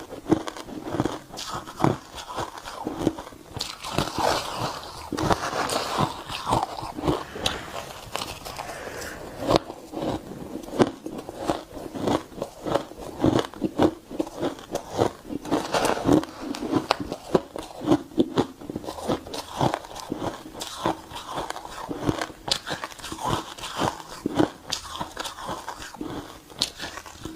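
Close-up crunching of shaved, refrozen ice being bitten and chewed: a steady run of irregular crisp crackles and crunches with no pause.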